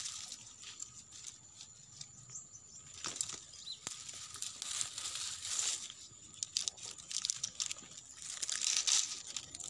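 Irregular rustling and crackling with scattered sharp clicks, coming in louder patches about halfway through and again near the end, over a faint steady high tone.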